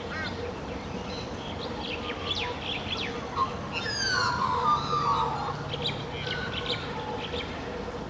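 Wild birds chirping and calling, with many short chirps and a louder run of downward-sliding whistles about four seconds in, over a steady low hum.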